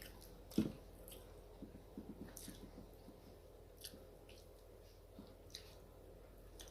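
Close-miked eating sounds: soft chewing and small wet mouth clicks, with one sharper, louder click about half a second in.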